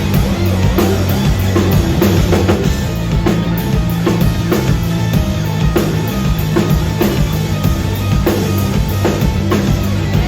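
Live rock band playing, with a full drum kit and a heavy bass line prominent, as heard in a concert hall.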